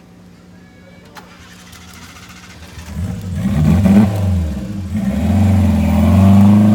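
An off-road 4x4's engine revving hard, starting about three seconds in: the pitch climbs, drops away briefly near five seconds, then climbs again and is held loud to the end.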